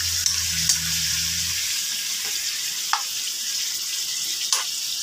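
Marinated chicken pieces sizzling in a metal wok over a gas flame as they are stirred, with a metal spoon clicking against the pan about three times.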